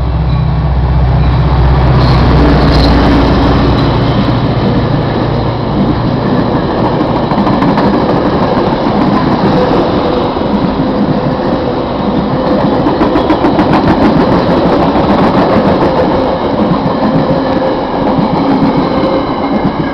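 Metra diesel commuter train passing at speed through the station without stopping. A heavy low engine drone is strongest in the first few seconds. After that comes a steady loud roar of the cars, with quick clicks of wheels over the rail joints, densest about two-thirds of the way through.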